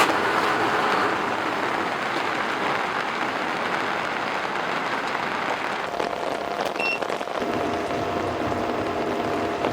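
Heavy rain falling steadily on a tent, a dense even patter.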